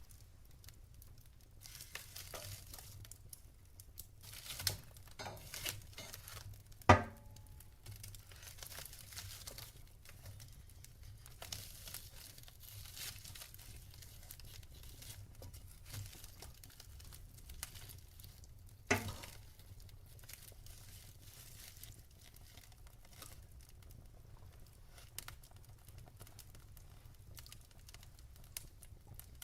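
Burning logs in a fireplace crackling, with scattered small snaps and two sharp, loud pops, about a quarter of the way in and about two-thirds of the way in.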